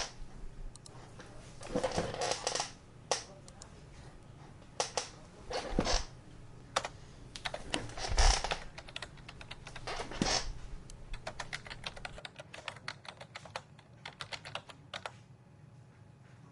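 Computer keyboard typing: scattered keystrokes, then a fast run of clicks in the last few seconds that stops just before the end. A few louder thuds and rustles fall between the bursts.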